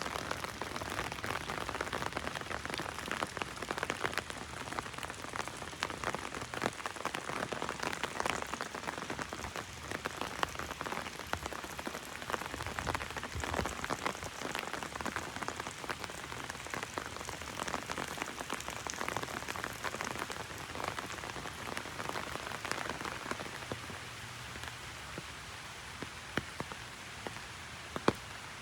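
Heavy rain falling on an umbrella overhead: a dense patter of drops, easing somewhat in the last few seconds.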